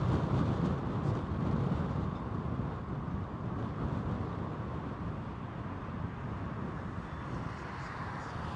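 Low rumble of storm wind buffeting the microphone, mixed with distant jet aircraft noise, easing slowly.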